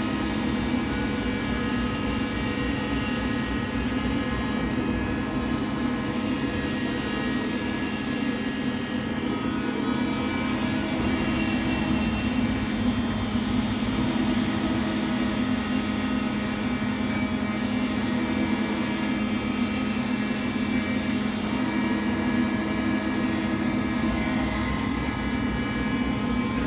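Weiler E-70 CNC lathe running steadily: a constant machine drone with several steady whining tones, some of which glide slowly up and down in pitch.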